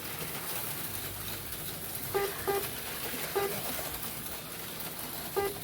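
Short electronic beeps from a slot car race's lap-counting system, four in all: two close together a little after two seconds in, one more a second later, and one near the end, as cars cross the finish line. They sound over a steady low whir of HO slot cars running on the track.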